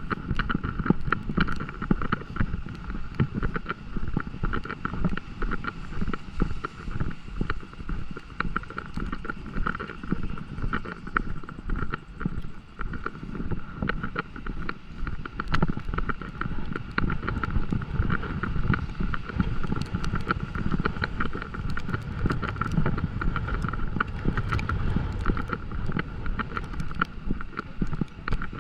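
Rain falling on a walk outdoors: a dense, irregular patter of small ticks over a steady low rumble.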